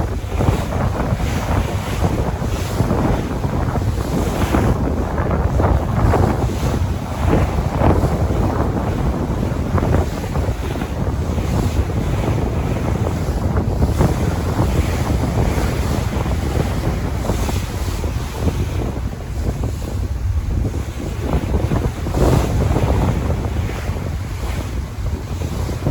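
Sea waves surging and washing in, with wind buffeting the microphone in a heavy low rumble.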